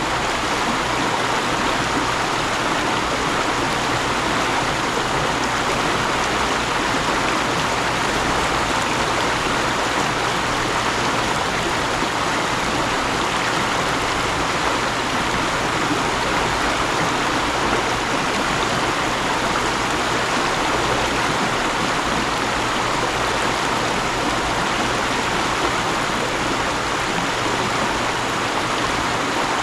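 Mountain stream flowing: a steady, unbroken rush of water over rocks.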